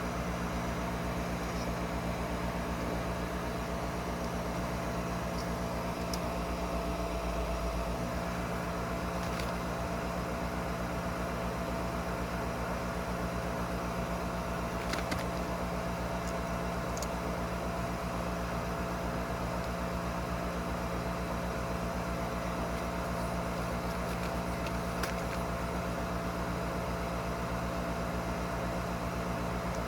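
Furnace draft inducer (flue) motor running steadily with an even hum. It is pulling negative pressure on the pressure switch, which is not closing.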